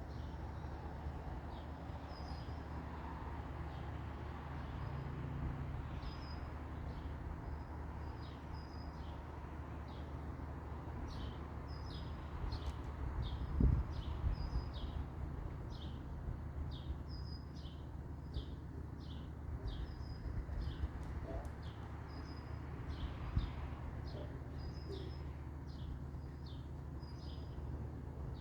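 Birds chirping, short high chirps repeating over and over, over a steady low background rumble. A single thump about halfway through.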